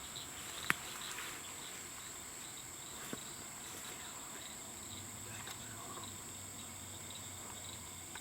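Faint, steady high-pitched insect chorus with an evenly repeating chirp, broken by a sharp click under a second in and a softer one about three seconds in.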